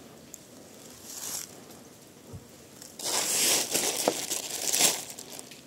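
Crinkling and rustling of something being handled, loudest for about two seconds from about three seconds in, with a shorter, fainter rustle about a second in.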